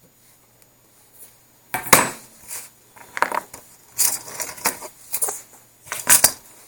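Metal tools and a metal amp chassis being handled and set down on the cabinet: a series of clinks and knocks, the loudest about two seconds in and another cluster near six seconds.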